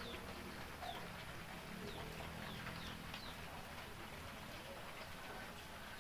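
A bird calling over and over in short, high, falling chirps, about two a second, against a steady background hiss.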